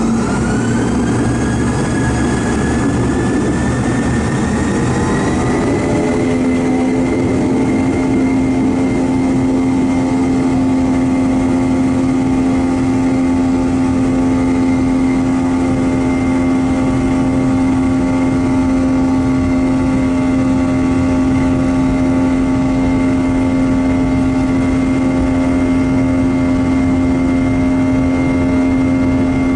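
Boeing 717-200's two Rolls-Royce BR715 turbofan engines spooling up for takeoff: a whine that rises in pitch for about the first six seconds, then holds steady at high thrust.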